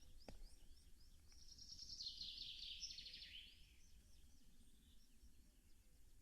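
Faint songbirds singing in the forest around the nest, with one bird giving a louder rapid trill of quick notes that drops in pitch over about two seconds. A single faint knock sounds just after the start.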